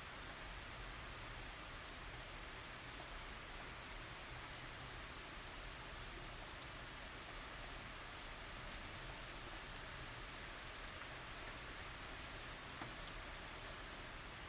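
Steady tropical rain falling, a continuous even hiss with many small drop ticks, no thunder.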